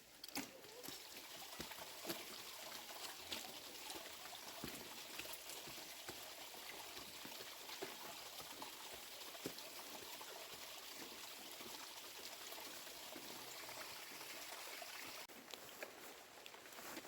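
Steady running, trickling water with a few faint knocks; it cuts off abruptly about 15 seconds in.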